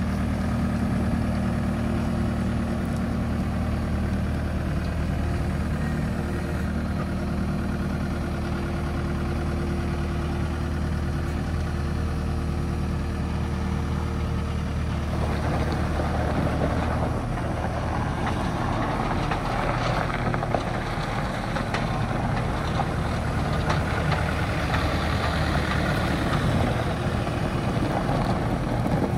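CASE SR240 skid steer's diesel engine running at a steady idle. About halfway through, the engine note turns harsher and louder as it picks up speed.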